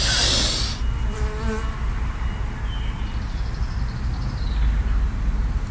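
A sharp, deep inhale at the start as the breath is drawn in for a breath-hold, then a steady low hum underneath while the breath is held.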